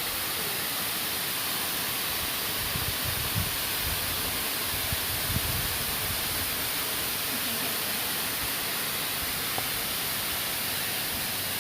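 Waterfall rushing: a steady, even hiss of falling water, with a few faint low thumps a few seconds in.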